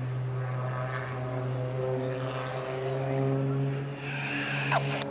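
Extra 300 aerobatic plane's six-cylinder piston engine and propeller droning steadily, the pitch of its overtones shifting slowly as the aircraft manoeuvres.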